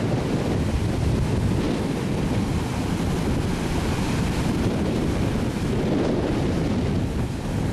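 Steady wind buffeting the microphone over the wash of storm-surge waves.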